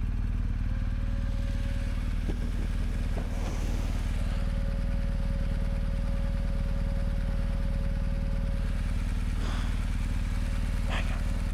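BMW R1250 GS Adventure's boxer twin engine running steadily at low trail speed, with a few brief knocks.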